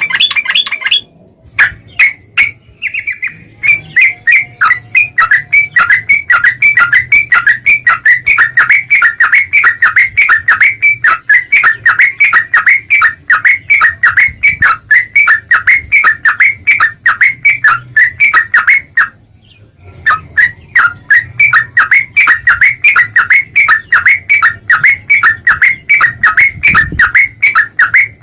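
Trucuk (yellow-vented bulbul) calling: a rapid, chattering run of short repeated notes, several a second. The run breaks off briefly about two-thirds of the way through, then resumes.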